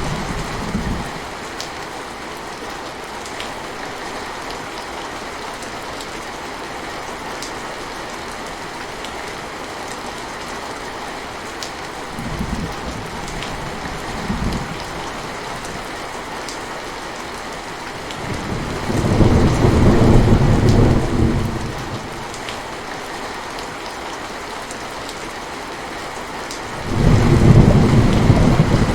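Steady rain falling, with rolling thunder. Two brief low rumbles come a little before halfway, a longer, louder rumble about two-thirds of the way in, and another loud rumble near the end.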